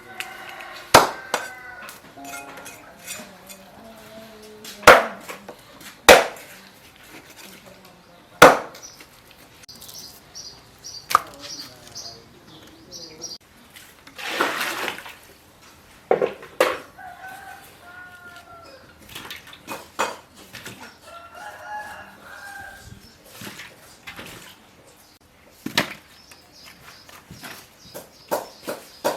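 Chickens clucking and a rooster crowing, with a handful of loud, sharp knocks scattered through, which are the loudest sounds.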